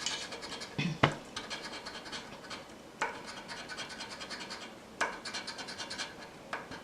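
Rapid scraping strokes rubbing the coating off a scratch-off lottery ticket, with a few sharper ticks between the strokes.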